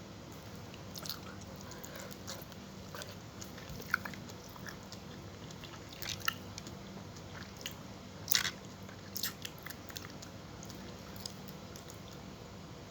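Close-miked eating sounds of fried tilapia with spinach and tomato being chewed: scattered crunchy bites and wet mouth clicks, with the loudest bite a little past halfway, over a low steady hum.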